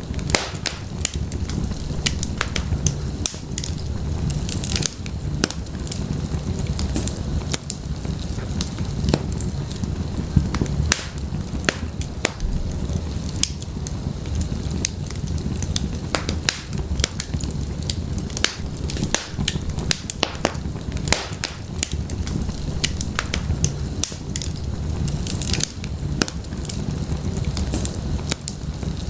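Wood fire in an open fireplace burning steadily, with a low rumble of flame and frequent sharp, irregular crackles and pops of the firewood.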